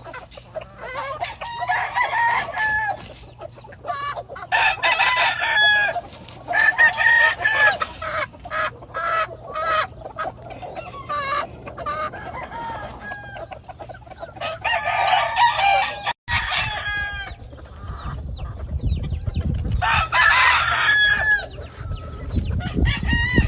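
Henny gamefowl roosters crowing again and again, one crow after another every couple of seconds, with clucking between. A low rumble comes in over the last few seconds.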